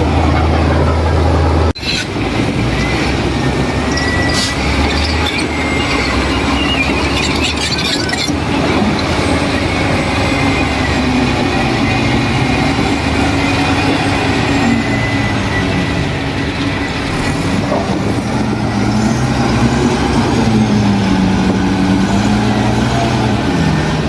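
Heavy diesel engine of earth-moving machinery running, its pitch slowly rising and falling, with an abrupt cut to a different engine sound about two seconds in.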